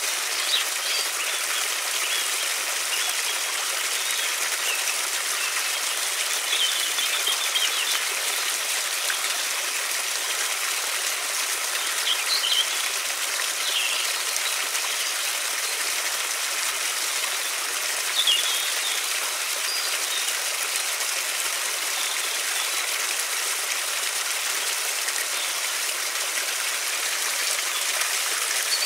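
River water flowing in a steady rush, with a few short high bird chirps scattered over it.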